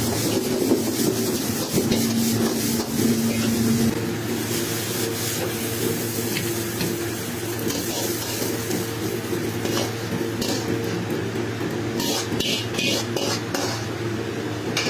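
Fried rice being stir-fried in a wok: a metal utensil scrapes and knocks against the pan with a light sizzle, over a steady low hum. A quick run of sharp metallic scrapes comes about twelve seconds in.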